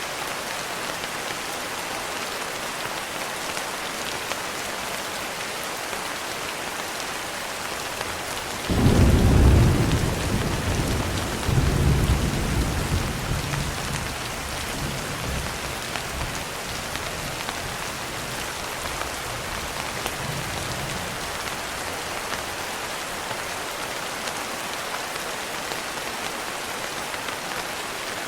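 Steady rain. A thunderclap breaks in about a third of the way through: a sudden deep rumble, a second swell a couple of seconds later, then it rolls away over about ten seconds.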